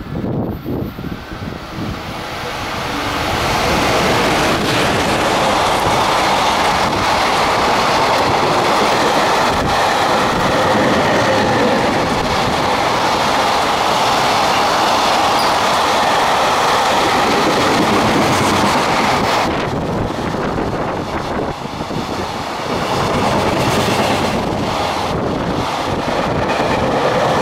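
A container freight train hauled by an EF210 electric locomotive passing through at speed. The noise grows louder about three seconds in as the locomotive draws level, then stays loud as the container wagons roll by, their wheels clicking over the rail joints.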